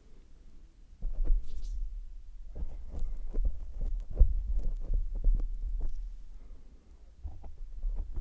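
A tongue licking a microphone close up: muffled low thumps and rumble with many short wet clicks. It starts about a second in, eases off briefly near the end, then picks up again.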